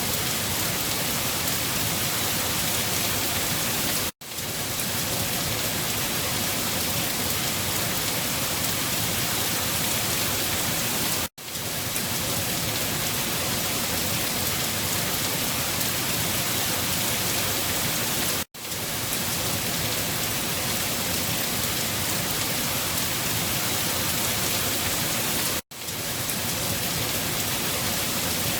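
Steady rain falling, a dense even hiss. It breaks off for an instant four times, about seven seconds apart.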